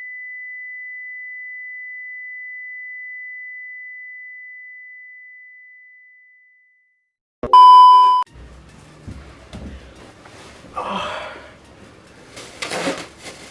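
A steady high electronic pure tone that slowly fades out over about seven seconds. After a brief silence it is followed by a short, very loud beep, then faint knocks and rustling.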